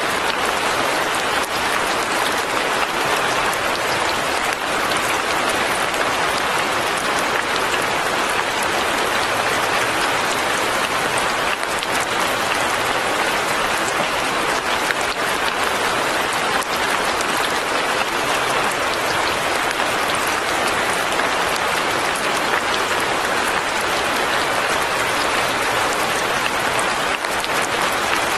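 Fine, steady rain falling: a dense, even patter of countless small drops with no let-up.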